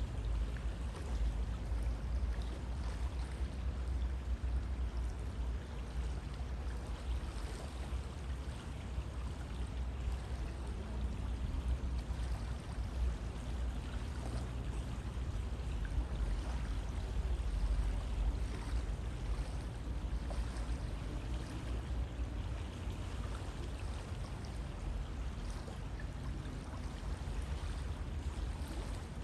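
River water flowing steadily, a continuous rushing with a deep low rumble underneath.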